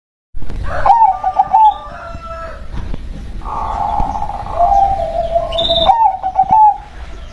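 Zebra dove (perkutut) cooing: a short phrase of quick hooked coo notes about a second in and another near the end, with a longer drawn coo between. Other birds chirp faintly.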